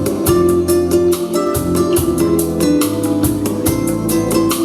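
Instrumental music: an acoustic guitar strumming a steady rhythm over a bass line, with no singing.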